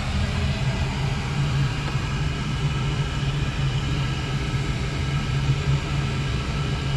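Oil burner of a Crown oil-fired boiler running steadily with a low hum and rumble. It is firing after air trapped in its fuel line was bled out.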